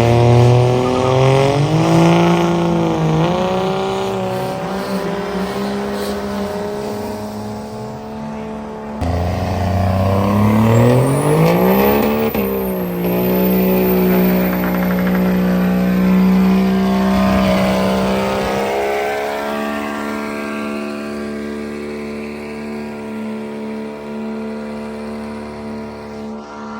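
A vehicle engine running and being revved: its pitch wavers, climbs steeply about a third of the way in and falls back, then holds steady while the sound slowly fades.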